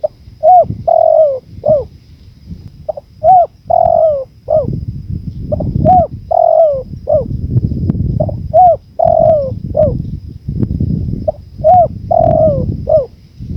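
A spotted dove cooing its repeated song phrase five times, about every three seconds. Each phrase is a few short coos with a longer falling coo in the middle. Low wind noise rumbles underneath.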